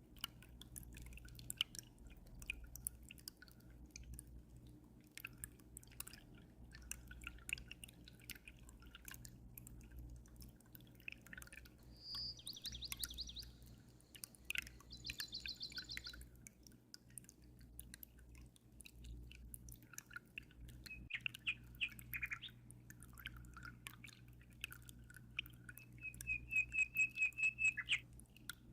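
Aquarium water dripping and trickling in small constant clicks over a steady low hum, with songbirds chirping: short trills about twelve and fifteen seconds in, and a fast run of repeated notes near the end.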